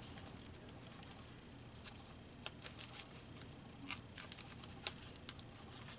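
Scissors snipping paper: a scattering of short, light snips and clicks, mostly in the second half, with quiet room hiss between them.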